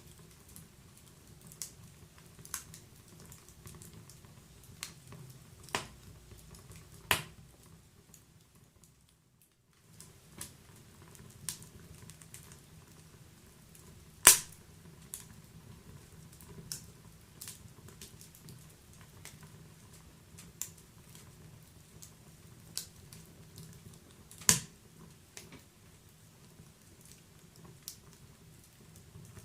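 Wood fire in a fireplace crackling: irregular sharp pops and snaps over a low steady hiss, with a few louder pops, the loudest about fourteen seconds in. The sound drops out briefly at about nine seconds.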